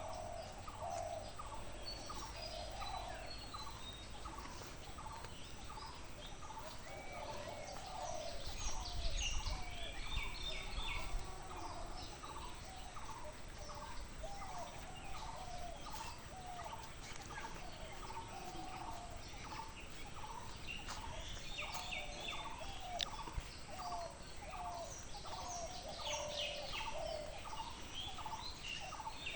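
Birds calling: a steady run of short, low repeated calls, about two a second, with bursts of higher chirping songbirds now and then. A low rumble swells for a few seconds about a third of the way in.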